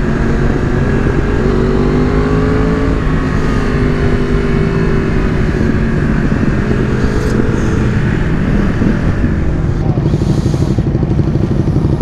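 Yamaha R1 sport motorcycle engine running under way, its pitch rising and easing gently with the throttle, with heavy wind rush.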